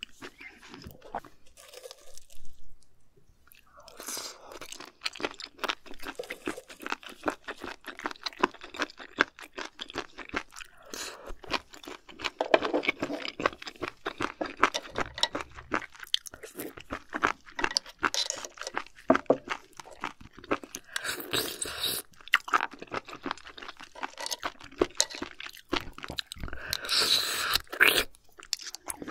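Close-miked chewing of raw shellfish sashimi: wet, crunchy bites and mouth sounds, irregular and continuous. It is quieter in the first few seconds and gets louder in bursts as fresh mouthfuls are bitten.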